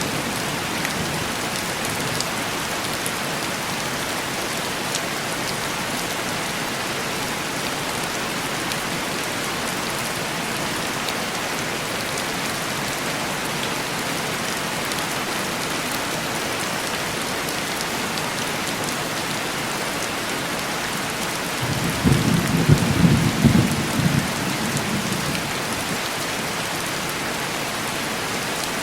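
Heavy rain falling steadily and tapping on window glass. After about twenty seconds a low rumble of thunder rolls for about three seconds.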